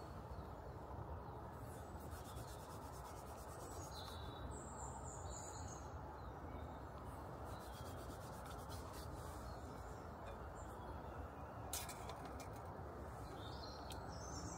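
Faint outdoor ambience with a steady low background noise. A short, high bird call comes about four and a half seconds in, and fainter chirps follow near the end.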